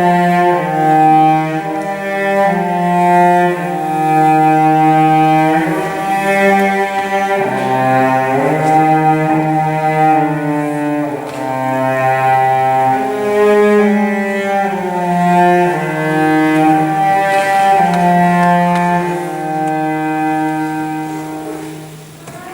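Slow bowed-string music, cello and double bass at the fore, playing long held notes in chords that change every second or two, fading out near the end.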